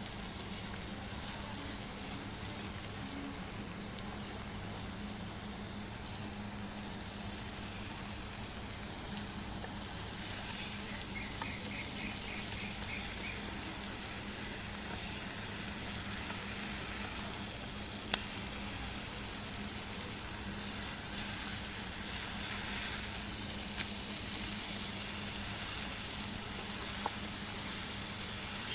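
Eggs, onions and tomato frying in a nonstick pan over a wood fire, sizzling steadily as a wooden spatula cuts and turns them, with a few sharp clicks in the second half.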